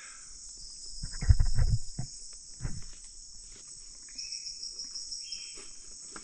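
Rainforest insect chorus: a steady high-pitched buzz, with a few held, steady-pitched calls joining in the second half. A short burst of low thumps about a second in is the loudest sound.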